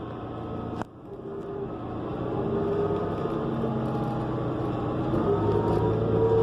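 New Flyer XN40 transit bus's Cummins Westport ISL G natural-gas engine and Allison transmission heard on board, growing steadily louder with a steady whine as the bus pulls away, after a sharp click a little under a second in.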